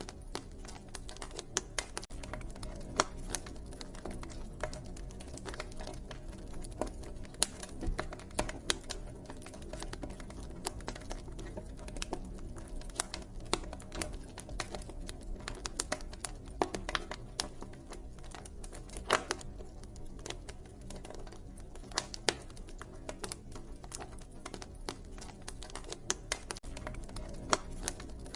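Wood fire crackling: a dense, irregular stream of small snaps and pops, with an occasional louder pop, over a steady low rush.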